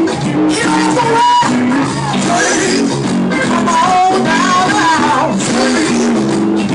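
Gospel music from a live church band, with guitar playing and singing over steady held chords.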